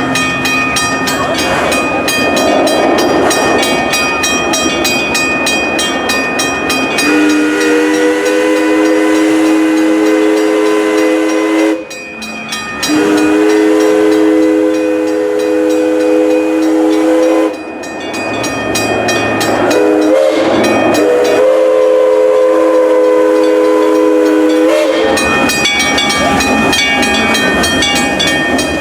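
A steam locomotive's whistle blowing two long blasts, a short one and a final long one, over the running noise and clickety-clack of the moving train. The whistle starts after several seconds of running noise alone.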